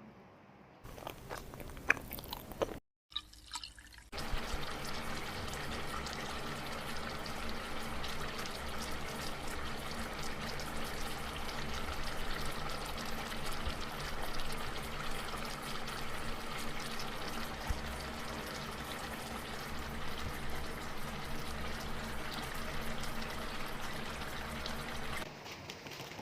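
Pork ribs sizzling on a hot grill pan: a steady crackling hiss, with a low hum underneath, that sets in about four seconds in.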